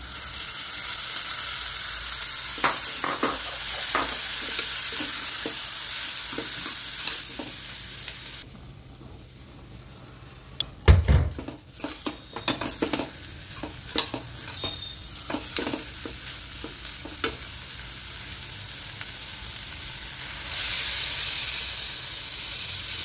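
Lentils sizzling in hot oil and masala in a pressure cooker, with a spoon scraping and clicking against the metal pot as they are stirred. The sizzle drops away about a third of the way in, there is a loud knock against the pot, and scattered spoon taps follow. Near the end a fresh burst of sizzling comes as water is poured into the hot pot.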